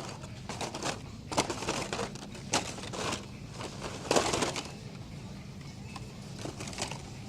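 Carded die-cast toy cars being rummaged through by hand in a bin: irregular plastic clacks, rattles and crinkling, with a few louder bursts, over a low steady hum.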